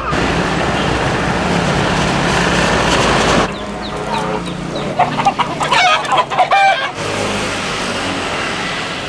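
Chickens clucking in short, pitched calls for about three seconds in the middle, between stretches of steady car road noise and engine hum that start and stop abruptly.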